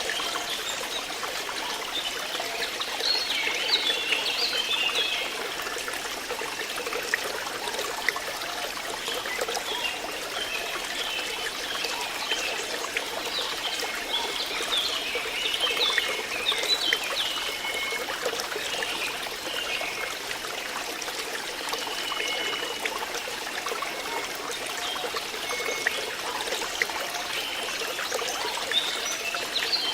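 Flowing water trickling and splashing steadily, with short high-pitched notes scattered over it.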